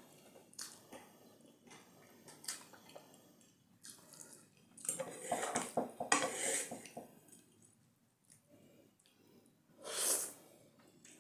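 Eating utensil clinking and scraping against a pan of instant noodles, mixed with slurping and chewing. The sounds come in scattered clicks, busiest around the middle, with one short louder burst near the end.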